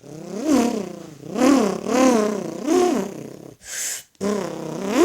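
A person's voice imitating a car engine revving: a run of swells whose pitch rises and falls about five times, with a short breathy hiss near the end.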